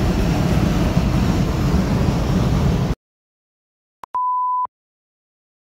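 Road and engine noise inside a moving car's cabin that cuts off abruptly about three seconds in. After a second of dead silence and a click, a steady half-second 1 kHz beep tone sounds, like an edited-in censor bleep.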